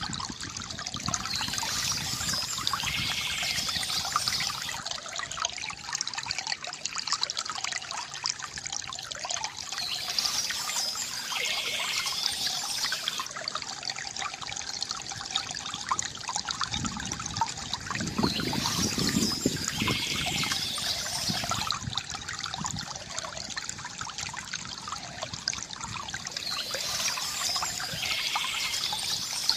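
Water from a bamboo fountain trickling and gurgling steadily. A brighter, higher-pitched swell comes back about every eight seconds.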